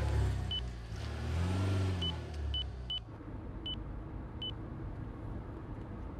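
Six short, high electronic beeps at uneven intervals, like key presses on a car sat nav, over the low rumble of a car's engine and road noise. The rumble rises and falls once about a second and a half in, then settles quieter after three seconds.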